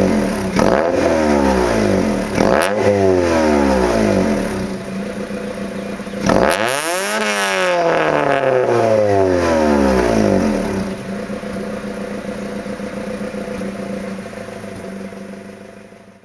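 Freshly rebuilt Honda D16Z6 four-cylinder engine being revved through a Buddy Club Spec D exhaust: two quick throttle blips, then a bigger rev about six seconds in that falls back. It settles to a steady idle after about eleven seconds and fades out at the end.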